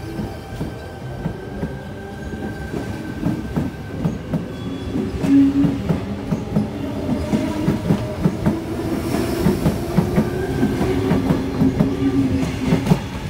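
Sydney Trains Tangara electric double-deck train moving along the platform, its wheels clicking rapidly over the rail joints over a steady motor hum, growing louder through the middle and easing off as the last car passes near the end.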